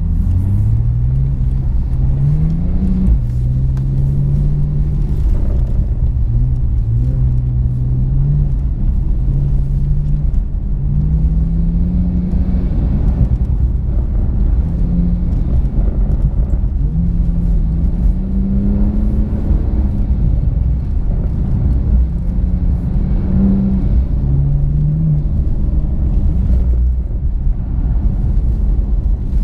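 Porsche engine heard from inside the cabin, revving up and easing off over and over as the car is driven on a snow and ice track, with a steady low rumble underneath.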